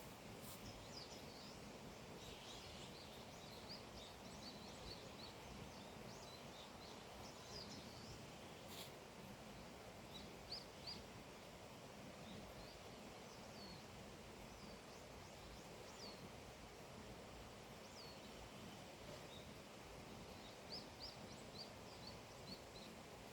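Faint songbirds chirping in short high notes, scattered over a quiet steady outdoor hiss, with small quick runs of notes about ten seconds in and again near the end.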